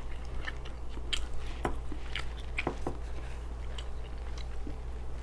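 Close-up chewing of deep-fried ribs: irregular wet clicks and small crunches from the mouth, busiest in the first three seconds and thinning out after.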